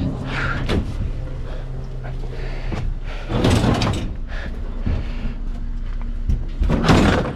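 Sheet-metal clattering and banging as scrap clothes dryers are handled and lifted onto a trailer. There are two loud clangs, one about halfway through and one near the end, over a steady low engine hum.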